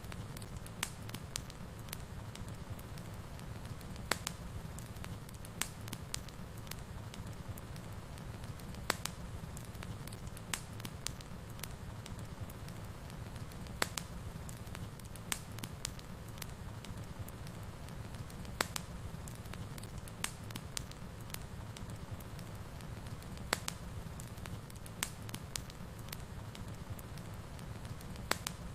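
Fire burning in a fireplace: a steady low rumble with sharp, irregular crackles and pops scattered through it.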